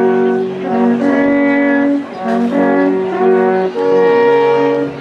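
Brass instruments playing held notes together in harmony, the chords changing in short phrases about a second long.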